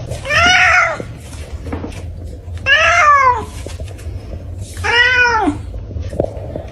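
Domestic cat meowing three times, about two seconds apart; each meow is drawn out, rising and then falling in pitch.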